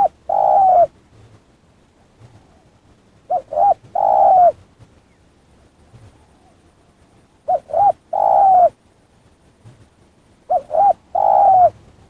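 A dove cooing: two short coos followed by a longer coo that falls at the end, the phrase repeated about every three and a half seconds.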